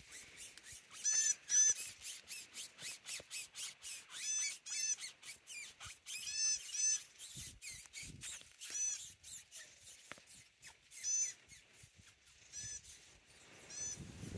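A bird calling in short, high, arching chirps, often two in quick succession, repeated every second or two, over a fast dry ticking of about five clicks a second.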